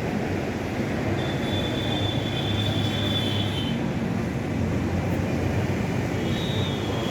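Wheat reaper-binder running steadily, with a mechanical rumble and two spells of a thin, high metallic squeal, one starting about a second in and one near the end.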